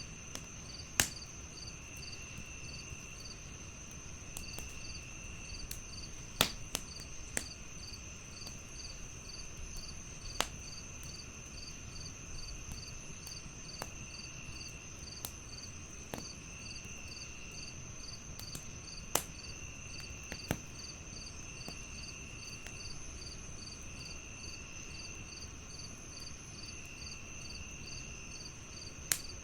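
Crickets chirping steadily in layers, with a continuous high trill, a regular pulsed chirp and shorter trills coming every couple of seconds, while a wood fire crackles with scattered sharp pops, the loudest about a second in, near six seconds, near nineteen seconds and near the end.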